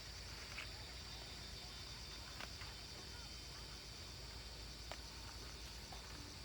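Insects chirring steadily in a high, even drone, with about three faint sharp clicks scattered through it.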